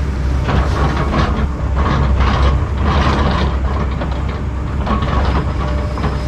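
Heavy diesel land-clearing machine running steadily under load, with repeated bursts of brush and wood cracking and splintering over the engine drone.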